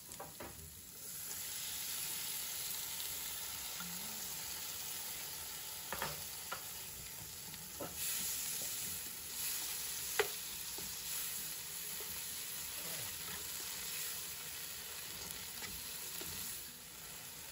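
Chopped kimchi frying in hot oil with onion and garlic in a frying pan: a steady sizzle, stirred with a spatula that clicks and scrapes against the pan now and then. The sizzle swells about a second in as the kimchi goes in, and eases just before the end.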